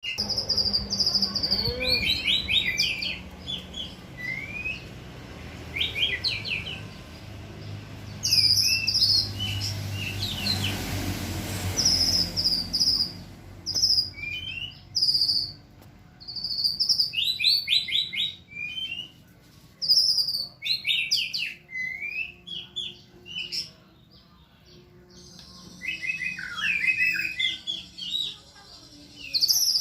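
A songbird singing in short bursts of rapid, high chirps and whistled notes, phrase after phrase with brief pauses between. About ten seconds in, a short rushing noise rises under the song.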